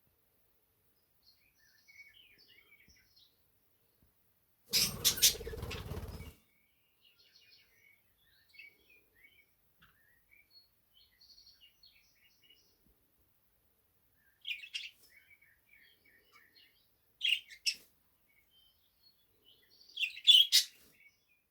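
A male budgerigar warbling softly in scattered short chirps, with louder sharp calls several times in the second half. About five seconds in there is a loud, noisy burst lasting over a second that is not birdsong.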